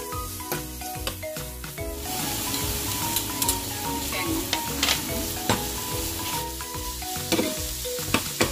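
Bone-in chicken pieces sizzling in a hot nonstick frying pan while a metal spoon stirs them, clicking and scraping against the pan; the sizzle grows louder about two seconds in. Soft background music plays underneath.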